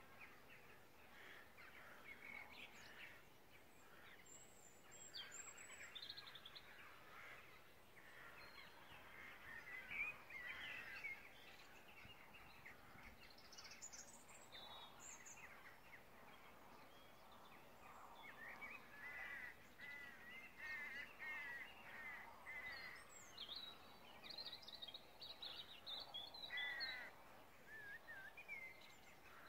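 Faint birdsong: several birds calling and chirping at different pitches, in short repeated phrases.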